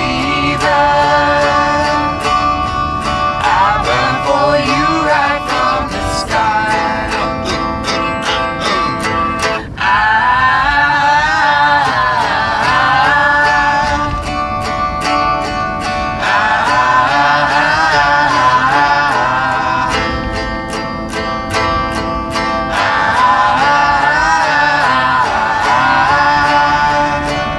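A small band playing a song live: guitar and other plucked strings with singing that comes and goes in long sung phrases.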